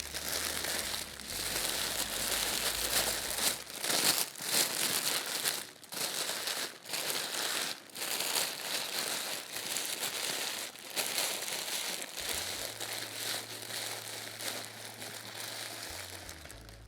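Sheets of paper being crumpled and scrunched by hand, a continuous crinkling with brief pauses.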